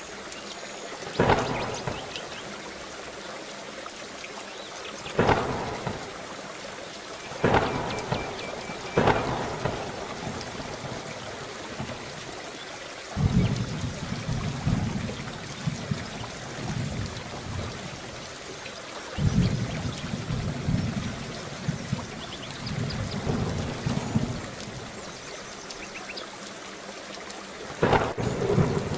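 Steady heavy rain with repeated thunder: several sharp cracks in the first ten seconds and again near the end, and long low rolling rumbles through the middle.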